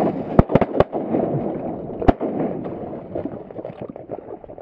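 Shotgun shots from a duck blind: a quick volley of three shots about half a second in, then a single shot about two seconds in.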